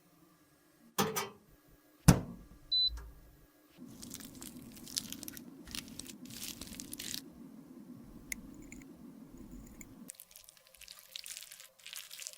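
Close-up handling of makeup product: two sharp taps, then a long stretch of crackly scraping and squishing with many small clicks, turning lighter and crisper about ten seconds in.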